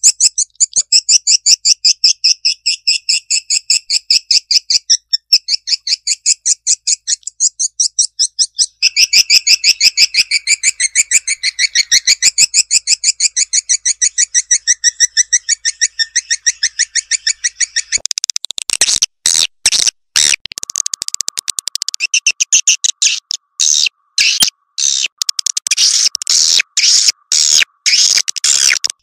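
Recorded edible-nest swiftlet lure call played back: a rapid, even stream of high twittering chirps, about five a second. About eighteen seconds in, the pattern changes to sharper clicks over a steady tone.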